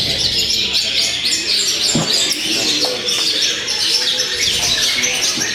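Songbirds chirping and singing, many short calls and trills overlapping in a dense, continuous chorus.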